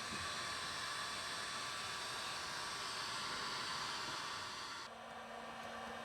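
A small electric blower-type motor running with a steady rushing noise, switched off abruptly about five seconds in.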